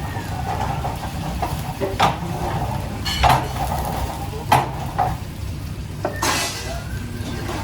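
Kitchen work: metal utensils clinking and scraping against pots and pans, a handful of sharp knocks spread through, over a steady low rumble.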